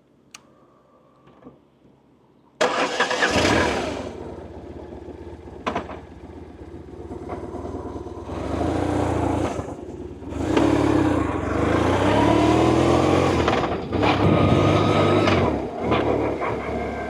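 BMW R1100RT's boxer twin engine starting suddenly a little under three seconds in after a few faint clicks, then running, with its pitch rising and falling as it is revved through the second half.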